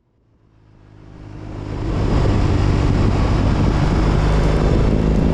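BMW R18 Roctane's big boxer twin running through an aftermarket Freedom 4.5-inch exhaust, a steady low exhaust note with a wide rushing noise above it, fading in over the first two seconds.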